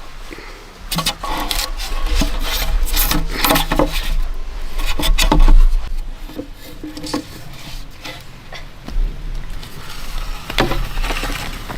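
Irregular scraping and rubbing strokes against wood, densest in the first half, over a steady low rumble.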